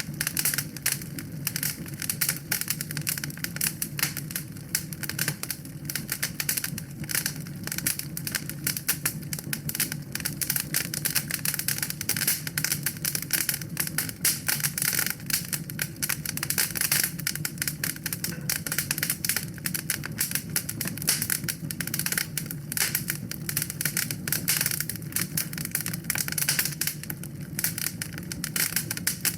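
Fire crackling in a fireplace: dense, irregular snapping and popping all through, over a steady low rumble.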